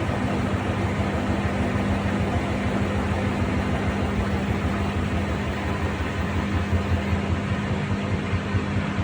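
Haier HW90-BP14636 front-loading washing machine, its inverter motor driving the drum by belt, running steadily at speed in the spin cycle: an even whooshing noise over a constant low hum.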